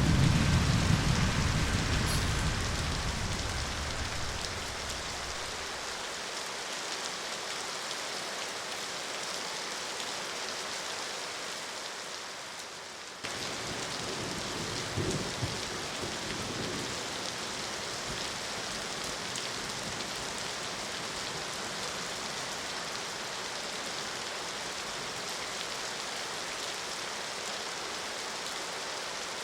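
Steady rain falling, an even hiss. A deep low rumble at the start fades away over the first few seconds.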